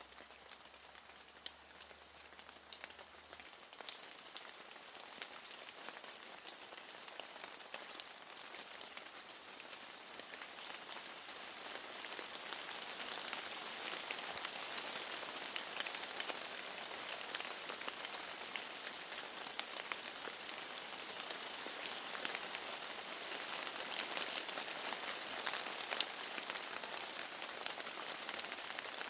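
Steady rain, a hiss with many separate drops ticking through it, growing louder about a third of the way in.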